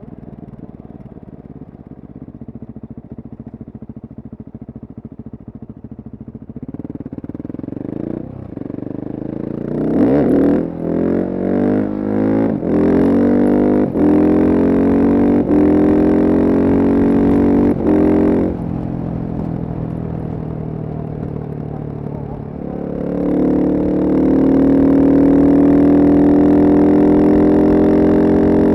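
Husqvarna single-cylinder supermoto engine pulling hard through a string of quick upshifts: the pitch climbs in each gear and drops briefly at every shift. It runs quieter and steadier for a few seconds, then pulls loud again with a slowly rising note near the end.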